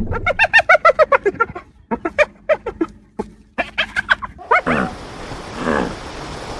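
An animal calling in a rapid run of short, pitched calls, about eight a second, falling slightly in pitch, then two shorter clusters of calls. About four and a half seconds in, a lower, drawn-out call with falling pitch begins.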